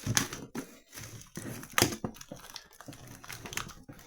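Plastic shrink-wrap being torn and peeled off a cardboard game box: irregular crinkling and crackling with sharp snaps, the loudest about two seconds in.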